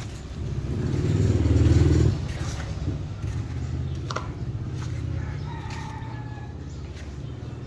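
An engine running: it grows louder for about two seconds, drops off sharply, then runs on steadily and eases slightly toward the end.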